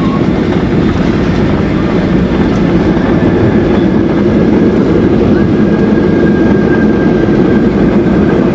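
Loud, steady cabin rumble of a Boeing 737-800 heard from a window seat, with its two CFM56-7B engines and the airframe around them. A faint, steady whine joins about five seconds in.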